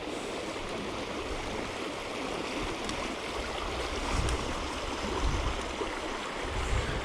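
A small river running high and fast in spate after flooding: a steady rush of water, with a few low bumps partway through.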